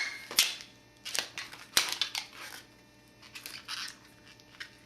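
Latex modelling balloon being handled and stretched: rubbing of the rubber with two sharp snaps, about half a second and near two seconds in, then little sound.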